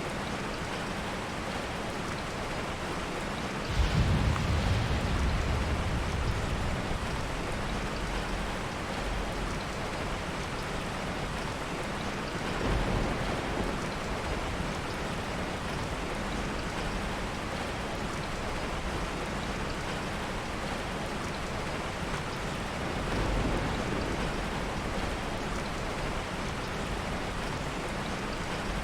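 Heavy rain falling steadily, with low rolls of thunder: a sudden rumble about four seconds in, the loudest, and two softer rumbles later.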